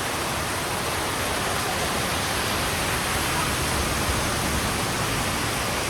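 Heavy rain falling on a road, a steady, even hiss.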